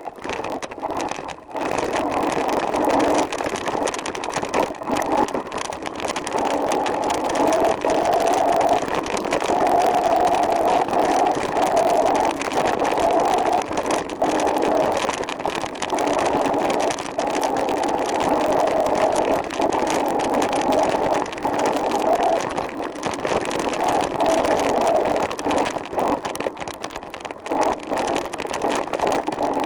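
Steady riding noise from a recumbent trike under way: tyre and wind noise, with a faint wavering hum, starting abruptly.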